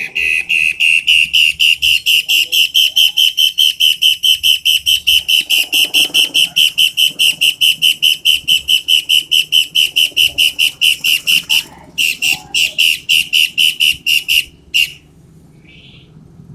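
Toed matahari bird singing loud and sharp: a long, fast run of the same whistled note repeated about five times a second. It breaks off briefly about three-quarters of the way through, then resumes for a few seconds and stops.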